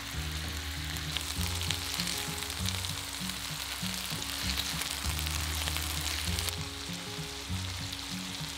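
Chicken thighs sizzling in hot vegetable oil in a frying pan as they brown: a steady frying hiss. Background music with low bass notes runs underneath.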